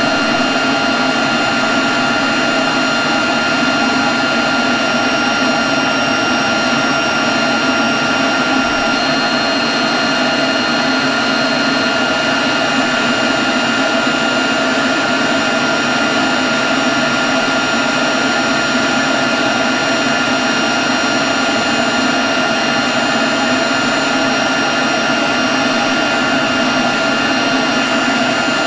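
Leaf blower running steadily, a constant rush of air with a thin, high, steady whine from its fan.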